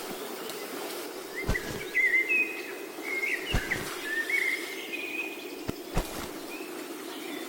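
Birds chirping and warbling in short runs over a steady outdoor hum of insects, with a few short, dull low thumps scattered through.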